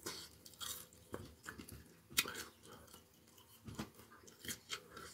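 A person chewing food: soft, irregular mouth clicks.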